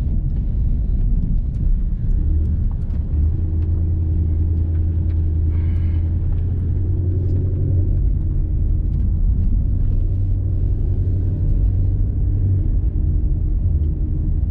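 Ford Mustang GT's 5.0 V8 with a full aftermarket exhaust, running at low, steady revs with a deep, even rumble heard from inside the car.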